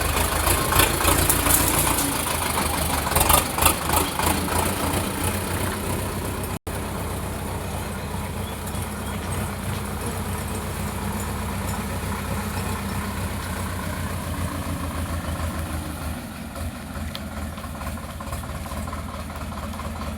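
Sonalika DI 750 tractor's diesel engine running with a steady low pulse. Rattling clatter rides over it for the first six seconds; after a brief dropout it runs more smoothly.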